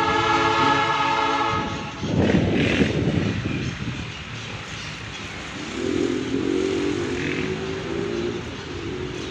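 Locomotive horn sounding a held chord of several notes that cuts off after just under two seconds, then a loud rumble from the passing train, and from about six seconds in a second, lower held tone.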